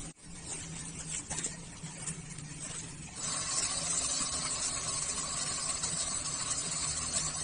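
Off-road RC car running: a steady motor whine with hiss, which gets louder about three seconds in.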